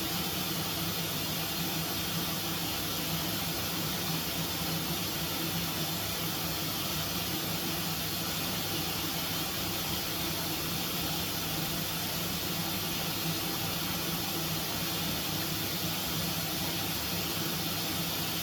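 A washing appliance running a quick cycle with a dishwasher tablet: a steady motor hum under an even hiss of water.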